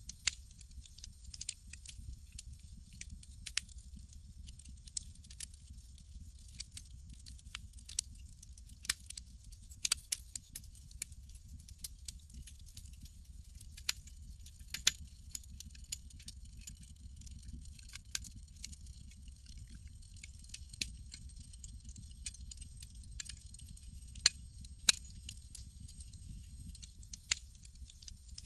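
Campfire crackling: sharp, irregular pops and snaps, some much louder than others, over a steady low rumble and a faint steady high tone.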